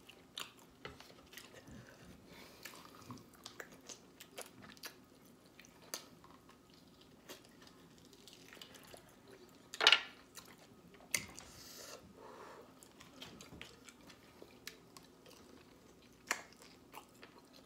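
A person chewing and biting mouthfuls of curried goat and roti, with soft wet mouth sounds and scattered small clicks. A few sharper knocks stand out, the loudest about ten seconds in.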